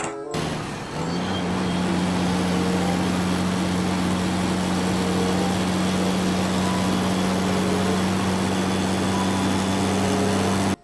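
Heavy truck engine idling, a low even drone that rises slightly in pitch about a second in and then holds steady; it cuts off suddenly near the end.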